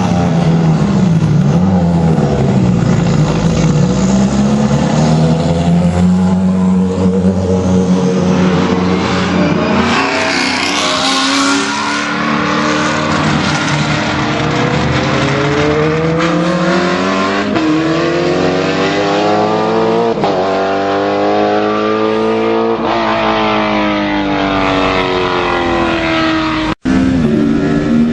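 BMW Z4 GT3 race car's V8 engine running loud and unsilenced, its pitch rising and falling again and again with throttle and gear changes. The sound drops out for an instant near the end.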